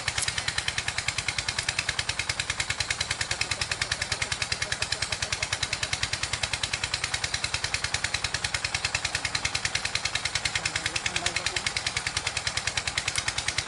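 Small single-cylinder engine running steadily, with an even, rapid pulse of about ten beats a second.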